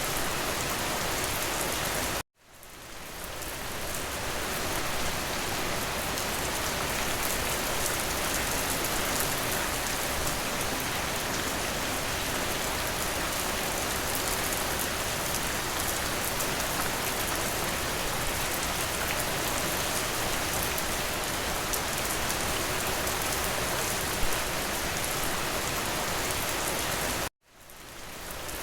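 Steady rain falling. It cuts out abruptly twice, about two seconds in and near the end, and each time fades back in over a second or two, as at the joins of a looped recording.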